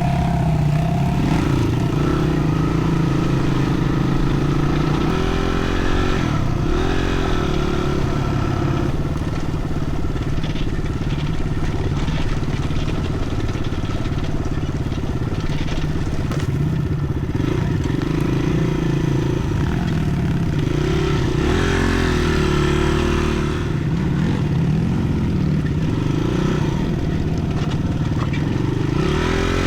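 Dirt bike engine running under way, its pitch rising and falling repeatedly with throttle and gear changes.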